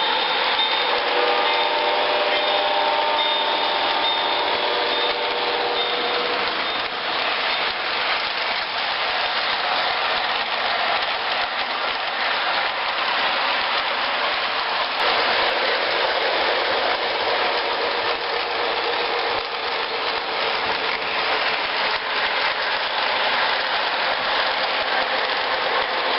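A train running steadily, a continuous rumbling, rattling noise. A chord of held tones, like a horn, fades out over the first six seconds or so.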